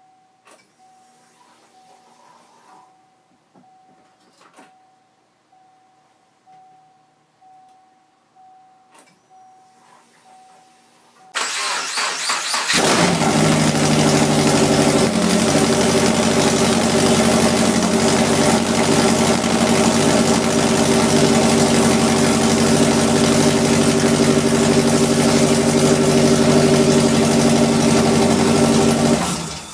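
Freshly rebuilt Subaru EJ257-based flat-four engine (SOHC hybrid) on its first start: it is cranked on the starter for about a second and a half, catches, and runs loud and steady with no exhaust fitted, then is shut off just before the end. Before the start there is only a faint repeating beep and a few clicks.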